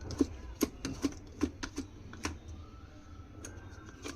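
Irregular sharp clicks and taps of small metal parts and a hand tool, about eight in the first two and a half seconds, then fainter ticks, as washers and a bolt are fitted on a mixer grinder's motor coupler.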